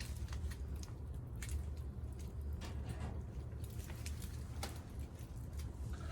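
Wood campfire crackling, with scattered sharp pops about once a second over a steady low rumble.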